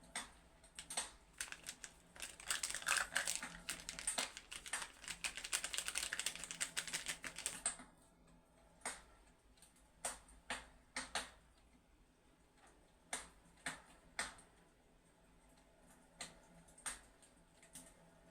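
Fireplace crackling: sharp, irregular crackles come thick and fast from about two seconds in until about eight seconds in, then thin out to single pops every second or so.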